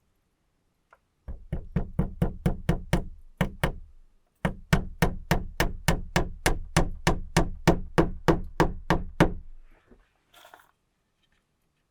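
Rapid, even knocking, about four strikes a second, in two runs with a short break between, followed by a brief rustle.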